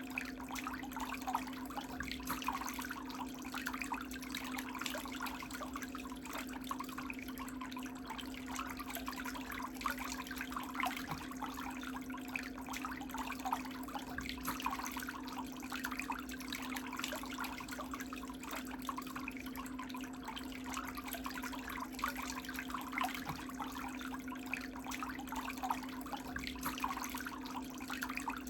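A small motor running at a steady pitch, with a dense, irregular crackling or trickling texture over it.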